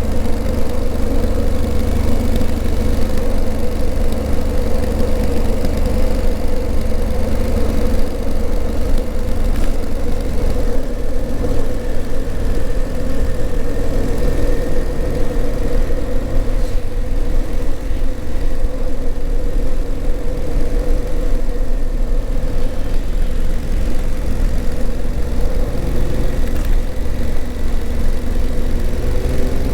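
Honda CRF1000L Africa Twin's parallel-twin engine running steadily while the motorcycle is ridden. About ten seconds in, the low drone eases off a little.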